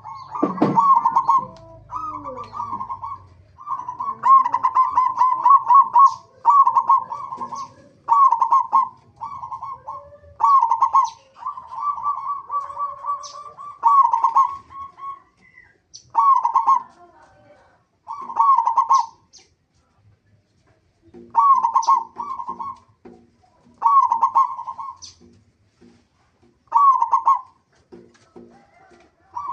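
Zebra doves (local perkutut) cooing: a long run of short, rhythmic cooing phrases, each about a second long, repeating every one to two seconds with a few short pauses.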